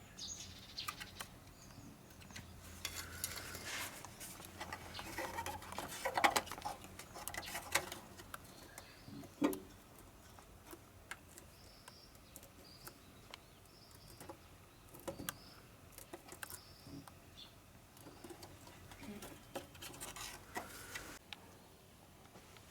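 Scattered light clicks, taps and knocks, most frequent in the first third, with one louder knock near the middle. A bird chirps several times in between.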